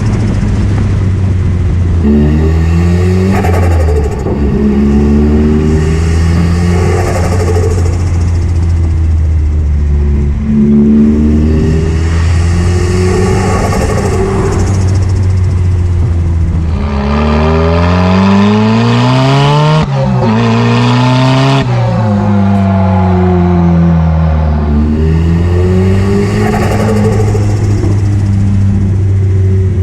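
Straight-piped Nissan S15 200SX with its turbocharged SR20DET four-cylinder, accelerating hard through the gears. The revs climb and drop sharply at each gear change, several times, with the highest pull just before two quick shifts in succession past the middle.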